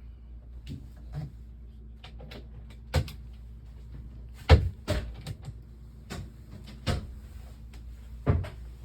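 Cupboard and locker doors on a boat being opened and shut: about eight separate knocks and clunks, the loudest about halfway through, over a low steady hum.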